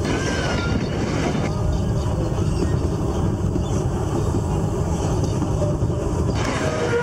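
Running noise of the Puffing Billy narrow-gauge steam train's carriage rolling along the track, heard from an open-sided carriage, with wind buffeting the microphone.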